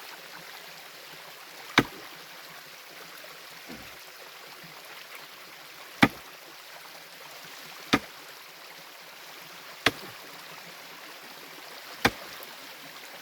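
Hand tool striking stream bedrock to break it, five sharp blows spaced about two seconds apart, over the steady rush of the stream.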